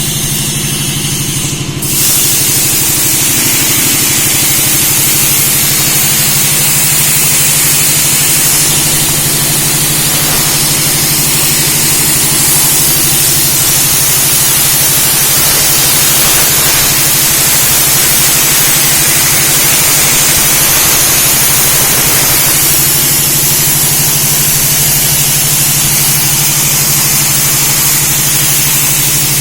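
Tabletop CNC plasma cutter at work: a steady low hum, and from about two seconds in a loud, even hissing of the plasma arc as it cuts, holding steady.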